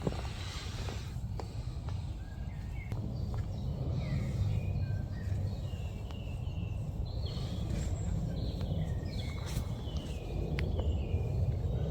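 Birds singing outdoors, a run of many short chirps and whistles, over a steady low rumble.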